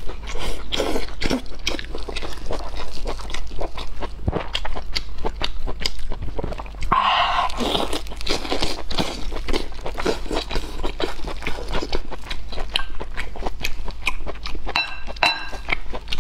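Close-miked eating of braised lamb offal: continuous chewing and biting with many small wet mouth clicks, and a short louder burst of noise about seven seconds in.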